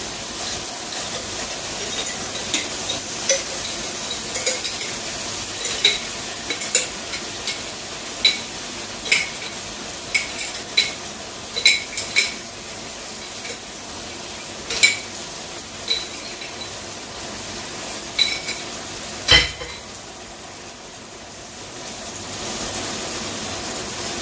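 A metal spoon clinking against a glass jar over and over as tomato sauce is scraped out into a pan of frying meatballs, about fifteen sharp ringing clinks at uneven intervals, with one louder knock near the end. Underneath, the meatballs sizzle steadily in the pan.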